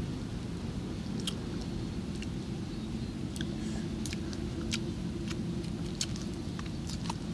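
A person chewing grilled fish with scattered short wet clicks and smacks of the mouth, over a steady low hum.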